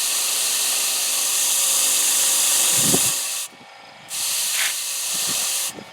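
Power-driven wire wheel scrubbing rust off a steel bolt, a loud steady hiss over the motor's hum. It is lifted away about three and a half seconds in, pressed on again just after, and lifted off near the end while the motor keeps spinning.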